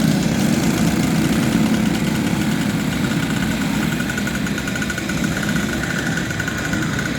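Several junior speedway motorcycle engines running together at low revs, a steady mixed drone. One engine's higher, pulsing buzz comes through more clearly from about halfway through.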